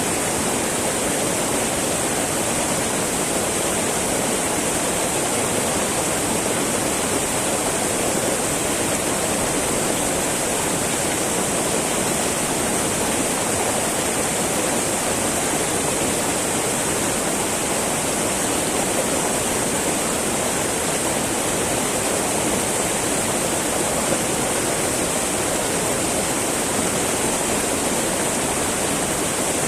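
Small mountain river flowing over rocks, a steady babbling rush of water.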